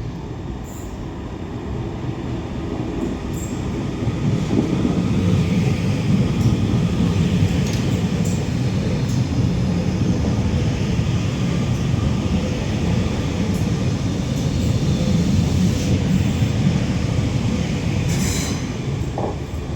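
TransPennine Express Class 397 electric multiple unit passing through the station without stopping. The steady rumble of wheels on rail builds over the first few seconds, holds, and fades near the end, with a few sharp clicks along the way.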